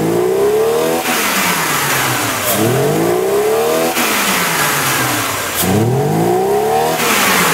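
Mercedes-Benz 260 E (W124) straight-six engine revved three times, each rev climbing and dropping back. A back-pressure gauge in the lambda-sensor port swings into the red, to about 1 bar against a 0.5 bar maximum. The exhaust is blocked, which the mechanics put down to a loosened catalytic-converter core choking the outlet.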